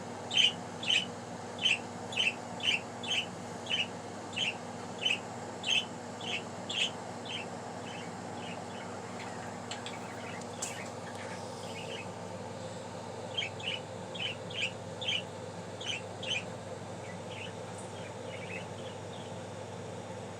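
Budgie chirping in a run of short, evenly spaced chirps, about two a second; it stops for several seconds midway, then starts again.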